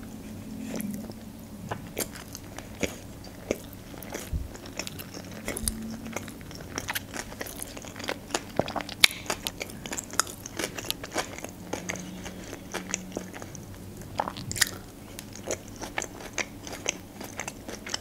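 A person chewing sushi rolls close to the microphone: wet smacking mouth sounds with many short, sharp clicks.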